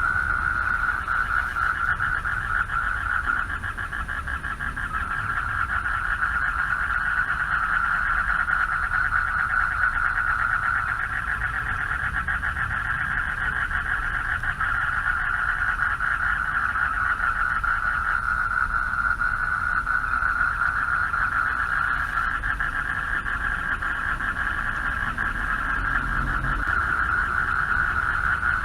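A dense chorus of many male frogs calling together from a pond to attract mates, making a steady, rapidly pulsing trill at one pitch with no breaks. A low rumble runs underneath.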